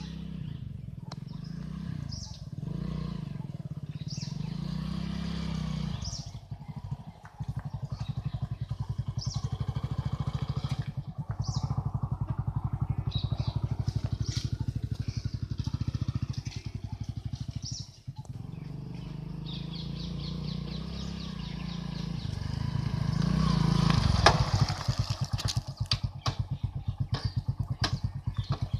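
Motorcycle engine running, with a steady rapid firing pulse, louder and rising in pitch briefly about three-quarters of the way through.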